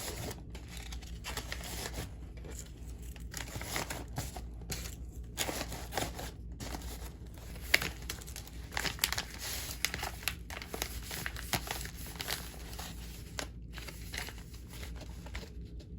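Packaging material crinkling and rustling as it is handled, with irregular tearing sounds.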